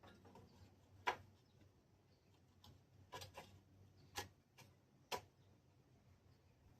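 A handful of short, sharp clicks and light knocks over a quiet background, the loudest about a second in and a quick cluster between about three and five seconds in: small tools or engine parts being handled and set down on a workbench.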